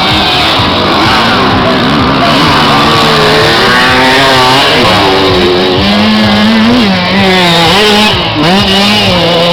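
Motocross motorcycle engines revving loudly, their pitch rising and falling as the riders open and close the throttle and shift gears.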